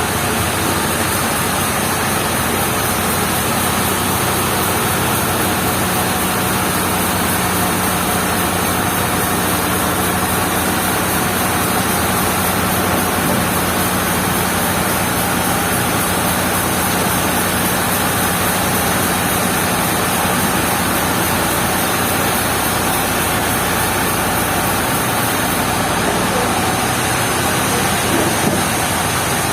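Sawmill machinery running steadily: a constant motor hum under a loud, even mechanical noise, with no cut starting or stopping.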